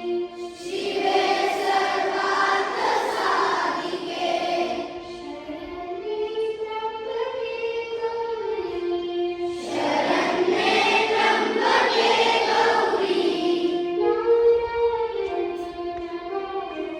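A choir of children singing a song with music, long held notes stepping from pitch to pitch, swelling fuller and louder twice.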